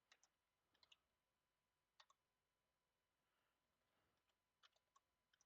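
Faint computer keyboard clicks: a few short taps at a time, in small clusters spread through the quiet.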